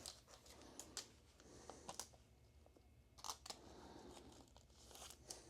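Near silence with a few faint clicks and rustles of trading cards and their packaging being handled.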